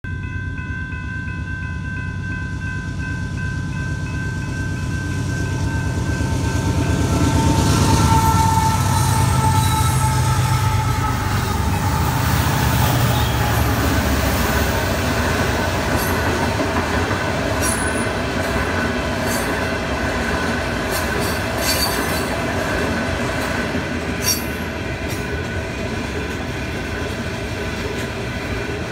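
Freight train passing through a road crossing: the diesel locomotive comes in with its horn sounding as a steady chord, its pitch dropping as the engine goes by about eight seconds in, where it is loudest. The locomotive's low engine rumble then fades, and the freight cars roll past with a steady rushing rattle, wheel clatter and sharp wheel squeals.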